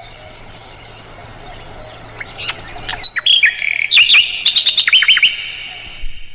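Sikatan londo, a flycatcher, singing: after a quiet start, a fast, loud run of sharp, high, down-slurred notes and trilled phrases rattled off in quick succession for about three seconds.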